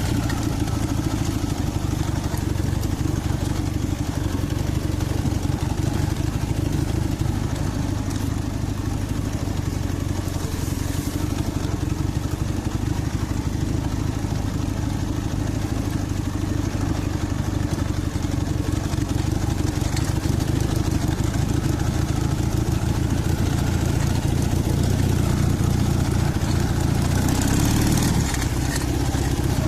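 Dnepr MT-11 motorcycle's flat-twin engine running steadily, with a slight drop in level near the end.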